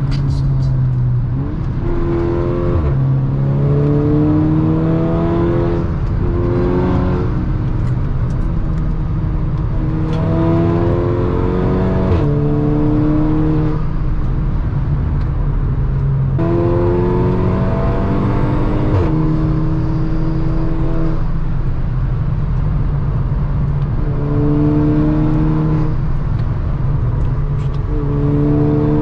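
Car engine accelerating hard, its pitch climbing and then falling back at each gear change, several times over, over a steady low road drone.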